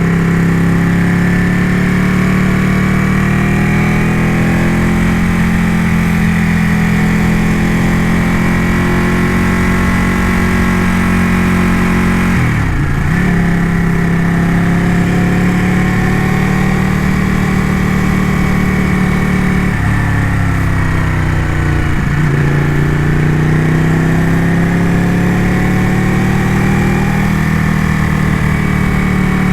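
Ducati motorcycle engine running under way at a steady road pace, with steady wind hiss. The engine note dips twice as the throttle is rolled off, sharply about a third of the way in and more gradually about two-thirds through, then climbs back each time.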